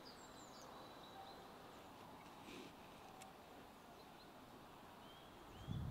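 Near silence with faint bird chirps: a few short sliding chirps and a thin held whistle, plus a couple of soft ticks near the middle.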